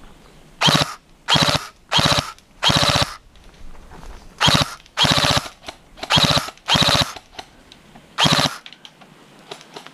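Airsoft rifle firing nine short full-auto bursts, each under half a second, in quick pairs and groups, with the firing ending about eight and a half seconds in.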